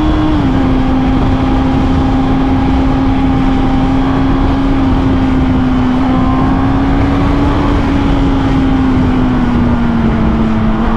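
Motorcycle engine running at a steady cruising speed, with heavy wind rush over the rider's microphone. The engine pitch dips slightly just after the start and eases down a little again near the end.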